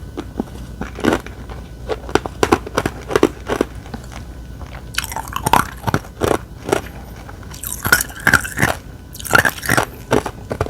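Close-miked mouth sounds of eating: crunchy bites and chewing in quick, irregular crunches, with a few longer, louder wet patches toward the middle and end.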